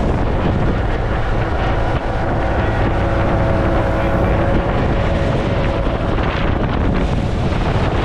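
Loud wind on the microphone as a fishing boat runs under way, with the boat's engine a faint steady hum beneath the wind.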